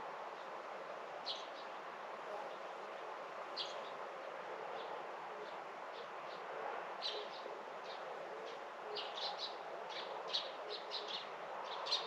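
Small birds chirping in short high notes over a steady background hiss: a few single chirps, then a quick run of chirps in the last three seconds.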